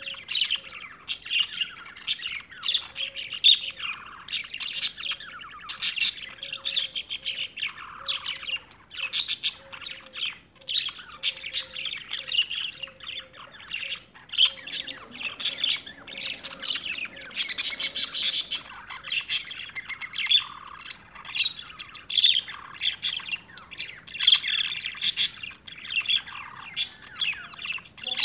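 Birds chirping, many short high calls in quick succession.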